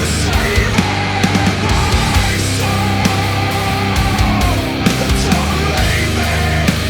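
Black metal recording: distorted guitar riffs over bass and fast, dense drumming, loud and unbroken.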